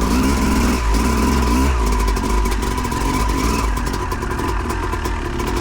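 Yamaha YZ250 two-stroke dirt bike engine running under way, its revs rising and falling as the rider works the throttle on a trail, with wind noise over the microphone.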